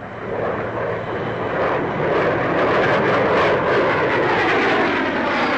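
Avro 707B delta-wing research jet flying past, the rushing noise of its single Rolls-Royce Derwent turbojet swelling over the first couple of seconds and then holding loud.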